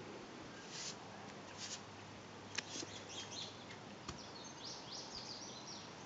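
A small bird chirping faintly, with a few short high calls and then, about four seconds in, a quick run of short falling notes.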